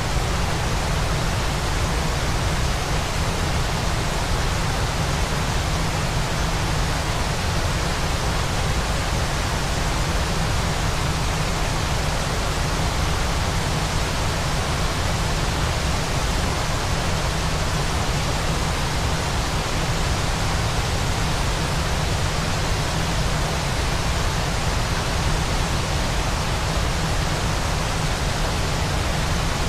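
Steady rushing noise of a waterfall, used as white noise for sleep, with no change in level and a strong low rumble beneath the hiss.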